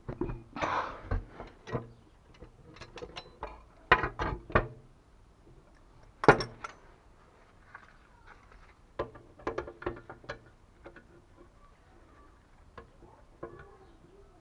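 Irregular clicks and knocks of tools and metal parts being handled during plumbing work, in scattered clusters with quiet gaps; the sharpest knock comes about six seconds in.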